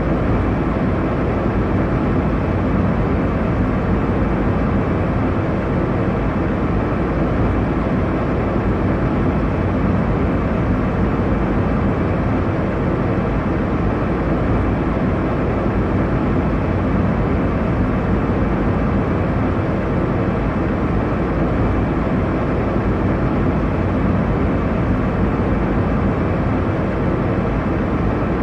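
Airliner cabin noise in cruise: a steady, even rush of engine and airflow noise, heaviest in the low end, without change.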